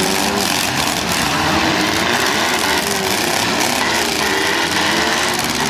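Several demolition derby car engines running and revving at once, their pitches rising and falling over one another in a steady, loud rumble.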